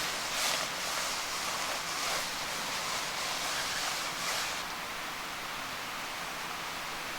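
Irregular rustling over a steady hiss for about the first four and a half seconds, then only the steady hiss.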